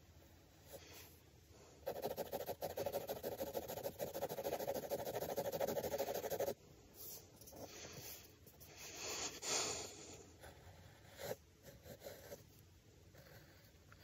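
Pencil scratching on drawing paper: a dense stretch of quick shading strokes lasting about four seconds that stops abruptly, then a few shorter separate strokes.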